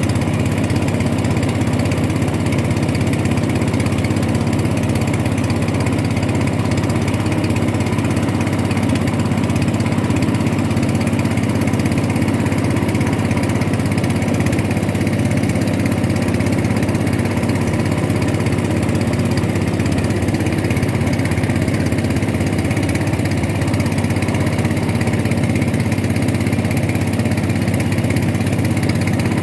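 A boat's motor running steadily at constant speed, an even engine drone with no change in pitch or level.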